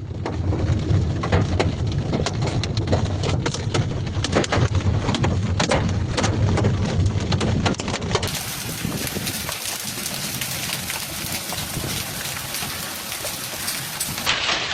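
Heavy storm precipitation hitting hard surfaces: for about the first eight seconds a dense, hard pattering of many sharp impacts over a low rumble, then, after a cut, the even, steady hiss of a heavy downpour.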